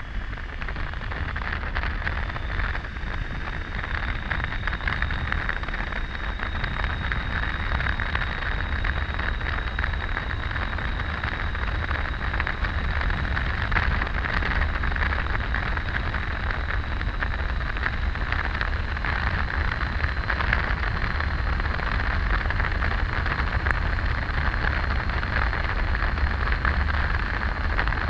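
Wind rushing over the microphone of a camera on a moving Triumph Tiger 800 motorcycle, mixed with the bike's riding noise: a steady rush with deep low buffeting and a faint thin whine high up.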